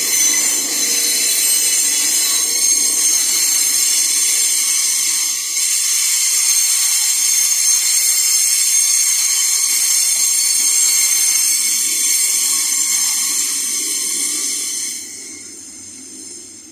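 Loaded iron-ore train passing, its wagons' steel wheels giving a steady high-pitched metallic squeal against the rails, which eases about fifteen seconds in.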